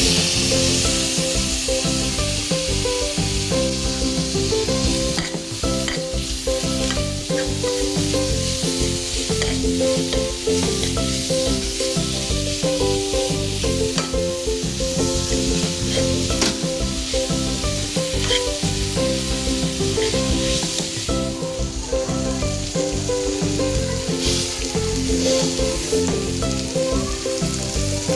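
Food sizzling as it fries in a hot pan, with the occasional tick of stirring. Background music plays underneath.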